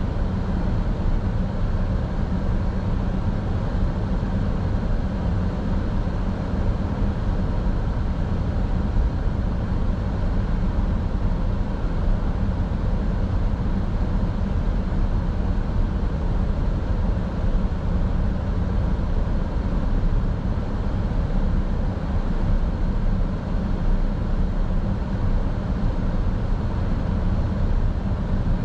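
Steady road and engine noise of a car driving at an even pace, heard from inside the cabin, strongest in the low end.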